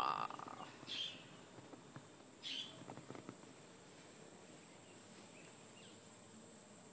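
Rainbow lorikeet giving a few short, high calls in the first three seconds, the first at the very start and the loudest, then falling quiet.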